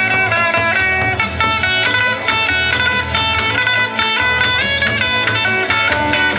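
Kawachi ondo band accompaniment: electric guitar playing a quick melodic phrase over a steady beat, filling the gap between the singer's lines.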